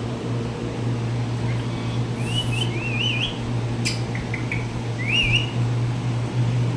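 Pet parrot giving short, wavering whistled chirps: a cluster about two seconds in and another about five seconds in, with a sharp click between them. A steady low hum runs underneath.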